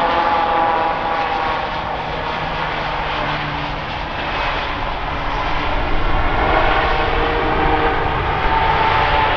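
Jet engines of an Airbus A320neo-family airliner: a loud steady roar with high whining tones that slowly drift in pitch as the aircraft moves past.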